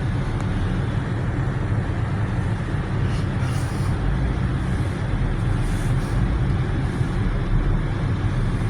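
Jeep running and moving slowly, heard from inside the cabin as a steady low rumble.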